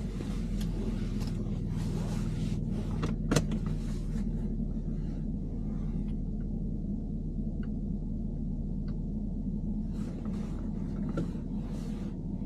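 BMW E90 running with a steady low engine hum, with scattered clicks and short rattly noises over it and one sharp click about three seconds in: the abnormal noise the car is being recorded for.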